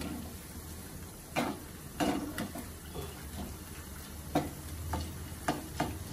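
Corn kernels frying in hot oil in a steel pan with a steady sizzle, while a metal skimmer spoon stirs them, clinking and scraping against the pan several times.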